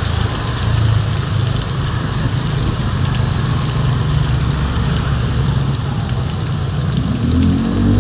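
Heavy rain falling, with a motor vehicle's engine running at low speed under it. Near the end an engine revs up, its pitch rising.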